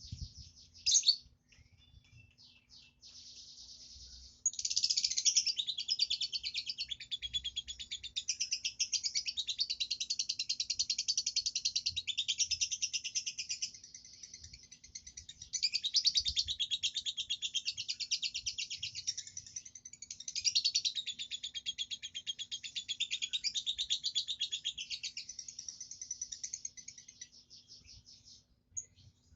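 Lovebird singing in the 'konslet' style: long, fast, unbroken runs of high, scratchy chattering notes. A few short calls come first, then the chatter runs almost without a break from about four seconds in, easing off briefly twice, over a faint steady hum.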